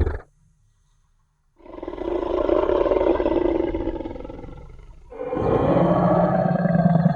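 Tyrannosaurus rex roar sound effect. A roar cuts off at the start; after about a second and a half of silence a long deep roar rises and slowly fades, and a second roar begins about five seconds in and is still going at the end.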